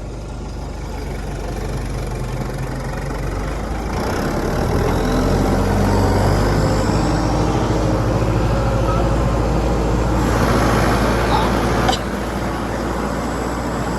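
Motor vehicle engine running under load, a steady low rumble that grows louder over the first several seconds and then holds, dropping off abruptly near the end.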